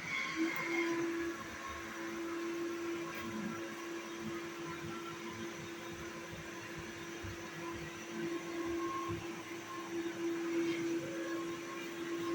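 Vacuum cleaner motor running with a steady whirring hum; its pitch steps up slightly about half a second in and then holds.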